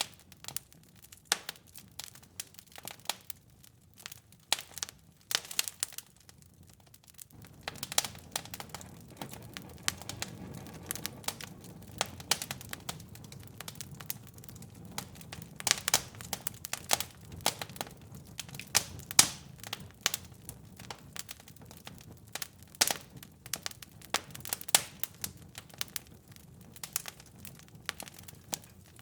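Wood fire crackling, with irregular sharp snaps and pops of burning logs. From about seven seconds in, a low steady rumble of the fire joins underneath the crackle.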